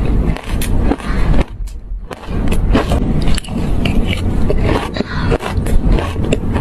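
Shaved ice being bitten and chewed: loud, dense crunching made of many sharp crackles, with a brief pause about a second and a half in.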